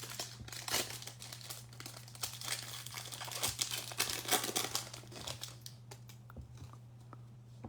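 A trading card pack's wrapper being torn open and crinkled, a dense crackling that dies away about five and a half seconds in, leaving a few faint ticks. A steady low electrical hum sits beneath it.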